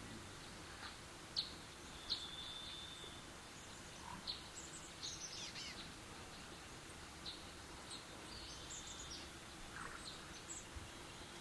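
Faint outdoor background with small birds chirping now and then: short, high chirps and quick sweeps over a steady low hiss. Two light ticks come at about one and a half and two seconds in.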